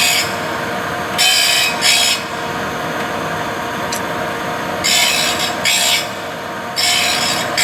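Vollmer saw-sharpening machine grinding the teeth of a saw blade: five short hissing grinding passes over the machine's steady motor hum, with the stone set a little higher so the teeth no longer burn.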